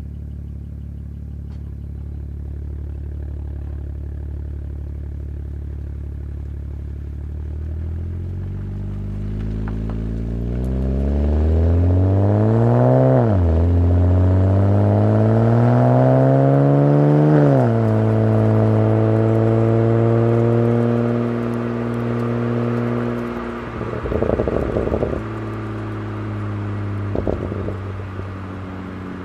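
BMW 135i's N54 twin-turbo inline-six through a custom exhaust with an N55 centre section and a Borla ProXS muffler. It idles, then the revs climb slowly, drop sharply about 13 s in like an upshift, climb again and drop again about 17 s in, then hold steady at higher revs before easing back. The loudest part is during the two climbs. Two brief rustling noise bursts come near the end.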